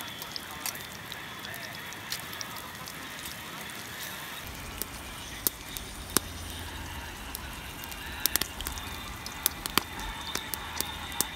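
Wood campfire crackling, with irregular sharp pops over a steady hiss; a low rumble joins about four seconds in.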